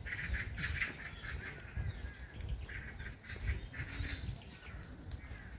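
Forest birds calling over and over in short chirps and squawks, with the low, regular thuds of footsteps on a path underneath.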